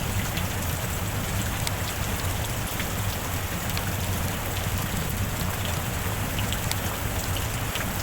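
Steady heavy rain falling, an even wash with scattered sharp drop ticks.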